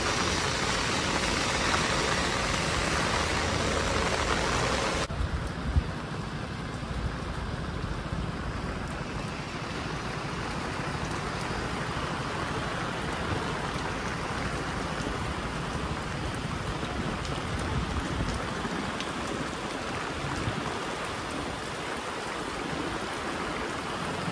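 Heavy rain falling on a city street, with tyres hissing on the wet road as cars pass. About five seconds in the sound changes abruptly to a softer, steadier rain hiss with light drips.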